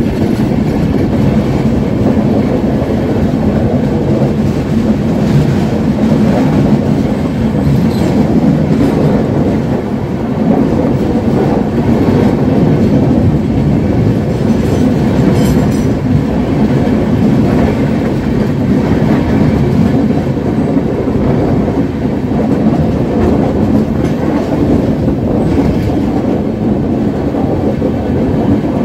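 Two Indian Railways express trains passing each other at speed, heard from an open coach door: a loud, steady rumble of wheels on rails, with a few clicks from the rails.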